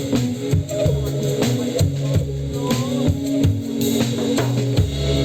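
Live trance band playing: a steady drum-kit beat over held bass notes and sustained keyboard tones.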